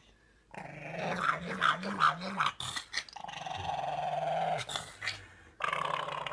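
A dog growling in three long stretches, the pitch wavering up and down.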